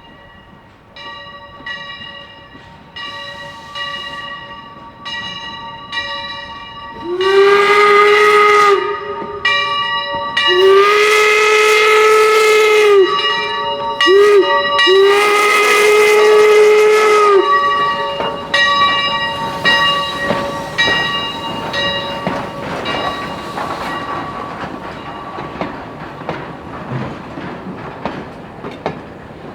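Pennsylvania Railroad 331, a replica 1868 4-4-0 steam locomotive, ringing its bell about once a second, then sounding its steam whistle in four blasts, long, long, short, long: the standard signal for a grade crossing. The bell keeps ringing as the train rolls on, with wheels clicking over the rail joints.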